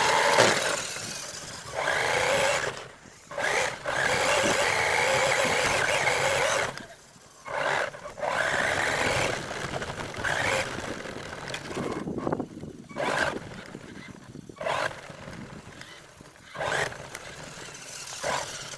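R/C monster truck driving in repeated throttle bursts of one to three seconds, the motor and tyres starting up and cutting off between runs, with shorter blips near the end.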